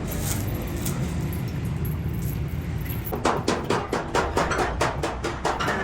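A machine's steady low hum, joined about three seconds in by a quick, irregular run of sharp knocks.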